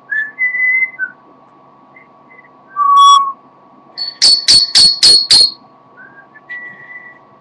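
Pet parrot whistling: a short rising whistle that levels off, a louder lower note about three seconds in, then five sharp, loud, shrill calls in quick succession, and a couple of short whistles near the end. A faint steady high hum runs underneath.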